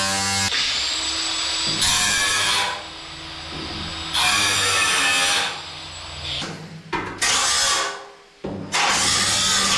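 A power tool working on sheet metal in four bursts of about a second each, with a thin high whine between some of them as it spins without cutting.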